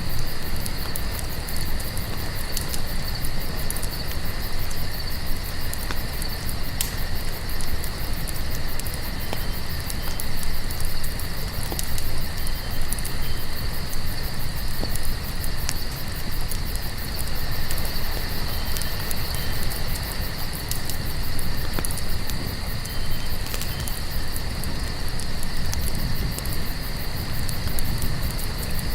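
Many crickets chirring steadily together, over a crackling campfire with scattered small pops and a steady low rumble underneath.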